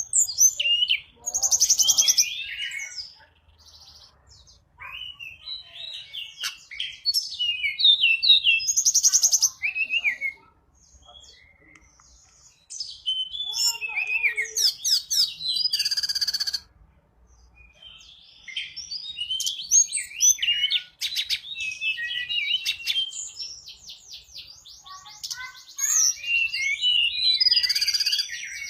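Tledekan gunung singing in bursts of quick, varied high chirps and trills, with short pauses between phrases: a lure call used to call in wild birds of the same kind.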